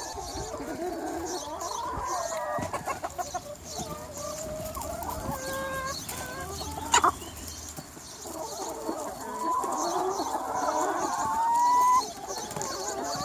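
A large flock of free-range chickens clucking and calling over one another. A sharp click comes about seven seconds in. Near the end, one long call rises slowly in pitch, the loudest sound here, then cuts off.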